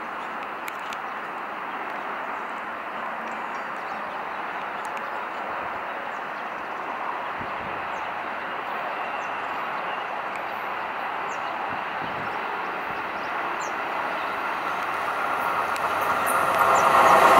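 An approaching passenger train hauled by a Shaoshan-series electric locomotive. Its running noise grows steadily louder and swells sharply near the end as the locomotive reaches the microphone.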